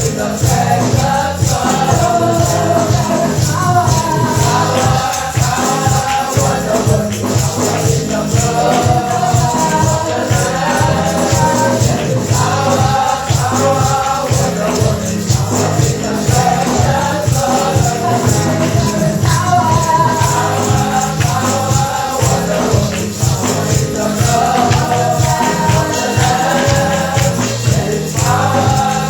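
Congregational gospel praise singing with a choir of voices, over a steady beat with tambourine or shaker.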